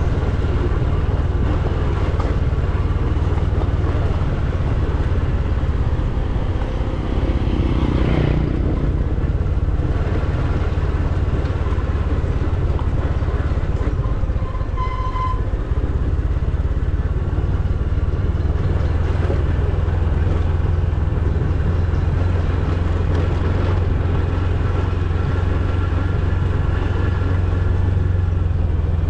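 A motor vehicle's engine running steadily, with a short pitched tone like a horn about fifteen seconds in.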